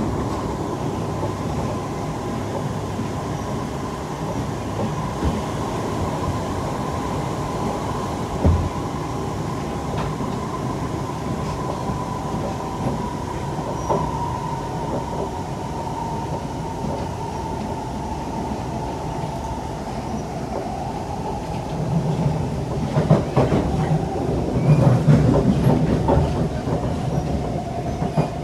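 Siemens C651 MRT train running on its track, heard from on board: a steady rumble with a thin whine that slowly drops in pitch. A louder stretch of rumbling and clatter with a few sharp clicks comes in the last several seconds.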